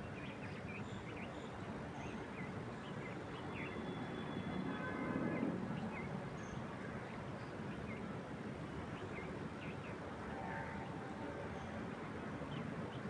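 Wind moving through trees, a steady rushing that swells into a gust about five seconds in, with small birds chirping in many short, high calls throughout.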